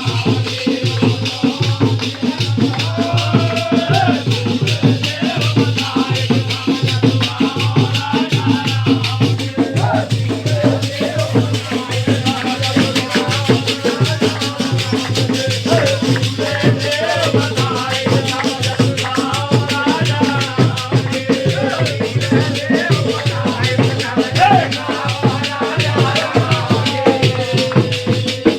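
Holi faag folk song: voices singing over fast, continuous jingling, rattling percussion.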